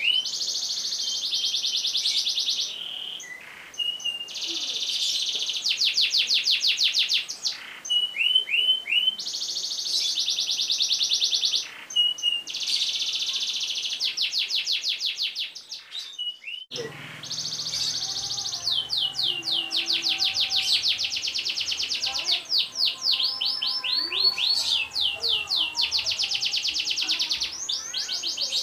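Domestic canary singing long, rapid rolling trills, phrase after phrase, with a brief break a little past halfway.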